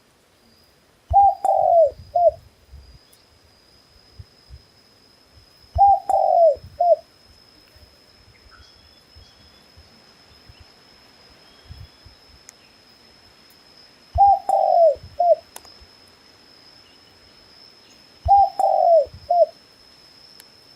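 A dove cooing four times, a few seconds apart. Each call is a falling coo followed by a short second note. A faint, steady, thin high-pitched tone runs underneath.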